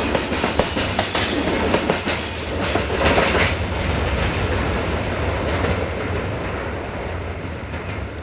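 Freight wagons' wheels running over rail joints close by, a rapid series of sharp clicks over a rolling noise. From about four seconds in, as the last wagon goes past, the clicks thin out and the sound fades steadily as the train draws away.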